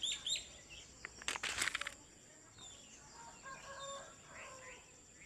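Birds chirping with quick, falling notes, then a brief rapid fluttering flurry about a second in, like wings flapping. Fainter pitched bird calls follow near the middle.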